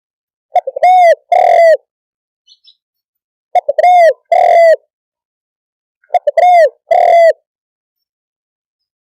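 Spotted dove cooing. Three calls come about three seconds apart, each a quick stutter of short notes ending in two longer, low coos.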